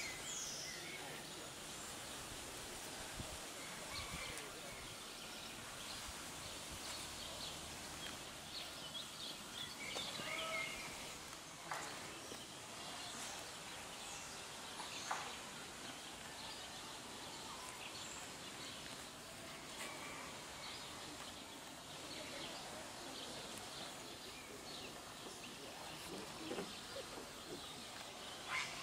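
Outdoor ambience: a steady background hiss with scattered short bird chirps.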